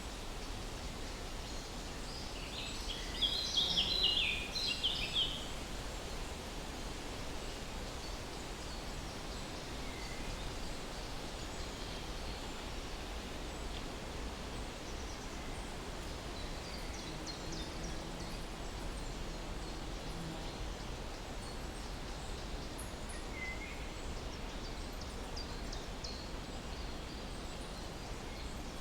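Steady outdoor background noise with songbirds: one bird sings a short burst of rapid high chirps about three seconds in, and a few faint chirps sound later.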